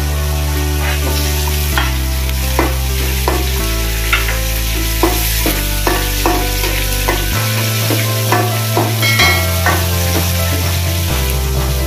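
Sliced jengkol (dogfruit) deep-frying in a pan of hot oil: steady sizzling with scattered crackling pops.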